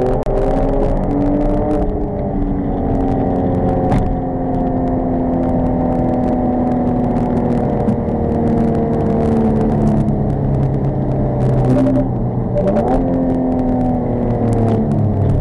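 Car engine heard from inside the cabin over tyre and road noise, holding fairly steady revs with its pitch sinking slowly. About twelve seconds in the revs dip and climb again, as at a gear change.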